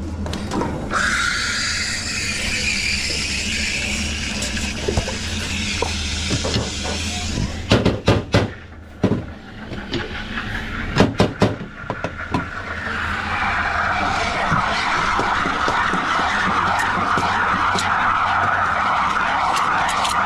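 Espresso machine steam wand hissing into milk from about a second in, rising in pitch as it starts and stopping after about six seconds. A string of sharp knocks and clatter of metal jug and machine parts follows. From about thirteen seconds a second steady hissing rush sets in, lower in pitch, over the low hum of the machine.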